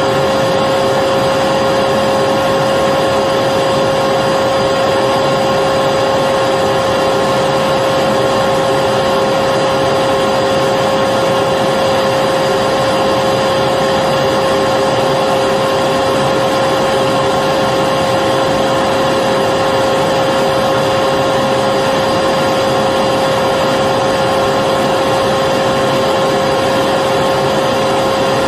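Electric vacuum cleaner running steadily, a continuous rushing of air with a steady whine.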